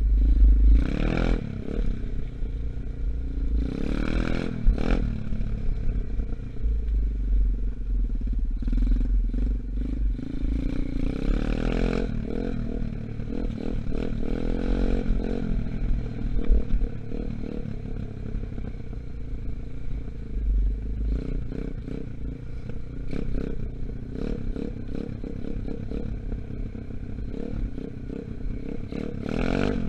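Engine of a 125cc Gunshot dirt bike, still being run in, running at fairly steady revs with several brief rises. Beneath it are a heavy low rumble and repeated rattling knocks.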